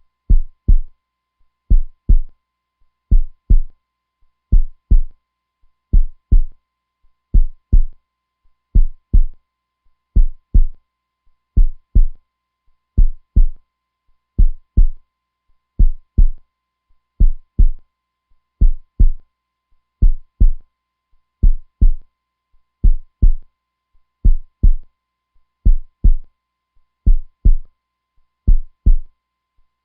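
Human heartbeat, a steady "lub-dub": pairs of low, deep thumps repeating evenly, about one pair every second and a half.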